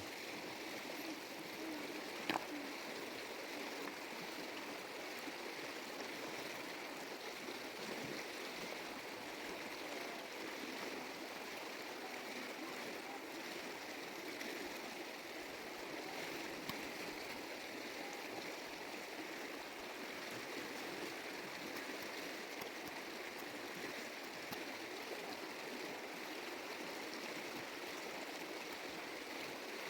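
A stream flowing steadily, with one sharp click about two seconds in.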